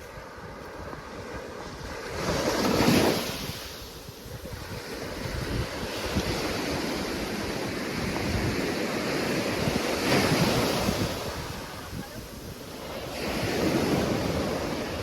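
Waves breaking and washing up the beach, the surf rising and falling in three swells, with wind buffeting the microphone.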